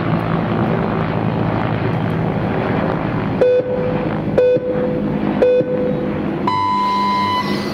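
Electronic race start signal: three short beeps about a second apart, then one longer, higher beep that gives the start, over a steady background hum.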